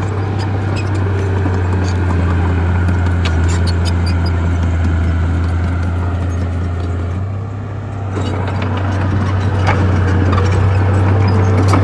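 Bulldozer diesel engine running under load with a steady low drone, with scattered clicks and clanks. It eases off briefly a little past halfway, then picks up again.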